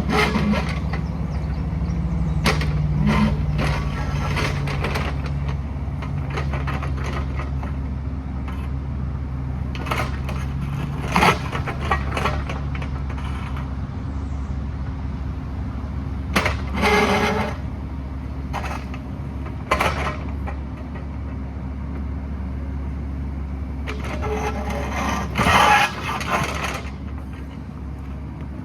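Excavator diesel engine running steadily under load, with intermittent cracking, scraping and knocking as the bucket works through ledge rock; the louder crunches come about 11, 17 and 25 seconds in.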